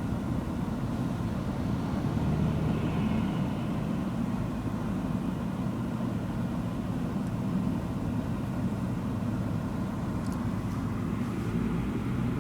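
Steady engine and road rumble of a car driving along, heard from inside the cabin.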